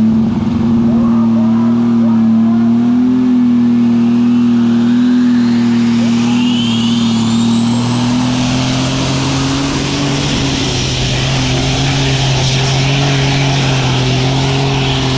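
Superstock pulling tractor's turbocharged diesel engine running flat out at high revs through a pull, holding a steady note that creeps slightly higher. Thin high turbo whistles rise partway through.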